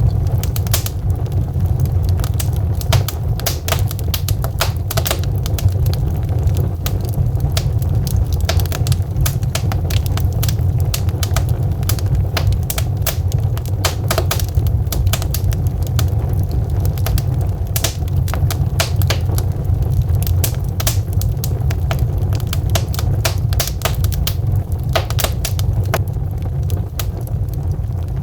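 Burning logs crackling, with many sharp, irregular pops and snaps over a steady low rumble.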